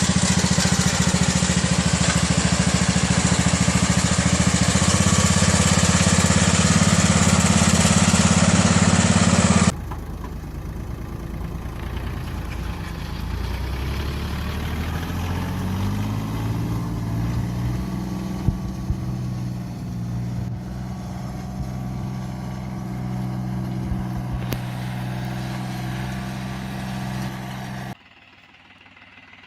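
Mini tractor engines running in successive clips: first a loud engine at a steady pitch, then after a sudden cut about ten seconds in, a quieter engine that revs up and holds a steady pitch, with a few sharp knocks; near the end it cuts to a much quieter background.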